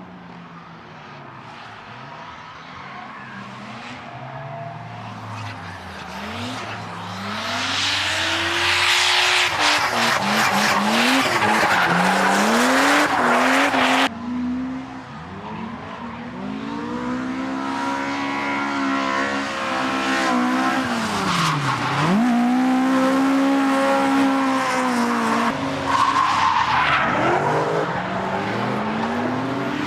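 Drift car engine revving hard, its pitch swinging up and down with throttle and gear changes, over the hiss of tyres squealing and skidding through a slide. The sound grows louder as the car comes closer, breaks off suddenly about halfway, then picks up again with more revving.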